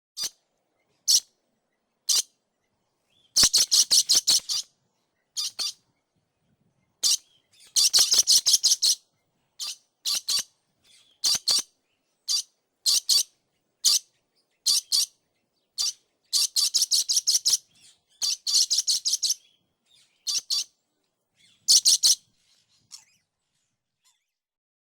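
Dusky lory calling: short, high-pitched calls, some single and some in quick runs of about seven a second, with silence between them.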